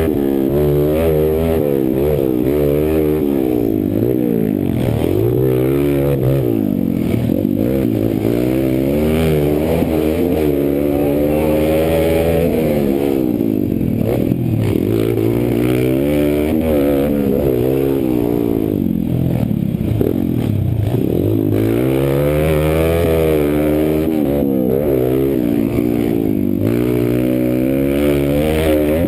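Kawasaki KLX140's small single-cylinder four-stroke engine revving hard and falling back over and over as the throttle is opened and closed and the gears change around a motocross track.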